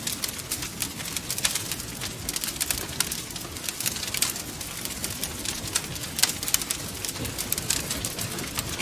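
Wood fire crackling: dense, irregular snaps and pops over a steady low rumble of burning.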